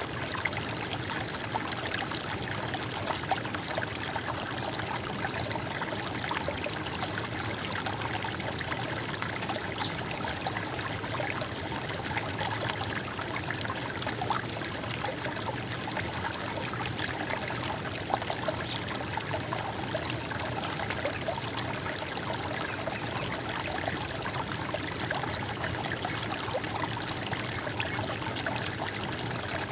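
Running water in a stream, trickling and gurgling steadily.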